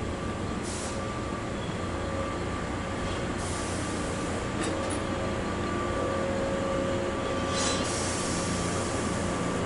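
A 413 series electric multiple unit running slowly into a station platform and coming to a stop, with a steady low rumble and thin whining tones. Three brief hissing bursts come about a second in, about three and a half seconds in, and near the end.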